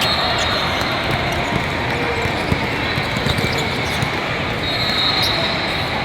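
Basketball game noise on a court: a ball bouncing, with a few sharp knocks about halfway through, over a steady background of game and crowd noise.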